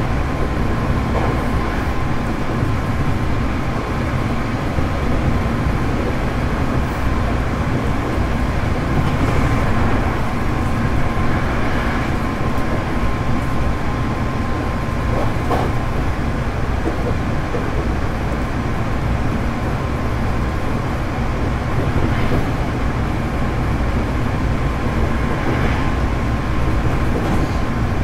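Running noise inside a Hankyu 8300 series electric train travelling between stations: a steady rumble of wheels on rail with the air conditioning running.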